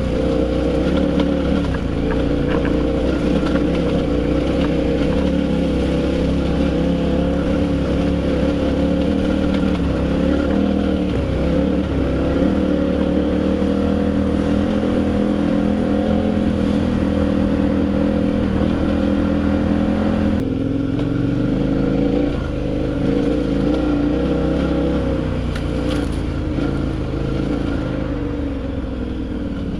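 Adventure motorcycle engine running steadily under way. About twenty seconds in, the engine note drops suddenly.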